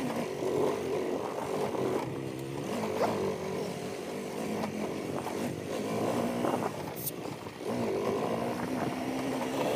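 Motorcycle engine running while the bike is ridden, its revs rising and falling over an off-road track, with a single sharp knock about seven seconds in.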